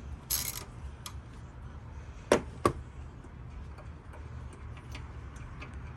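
Two sharp metal clicks about half a second apart from hand tools working the engine-bay bolts, after a brief rustle at the start.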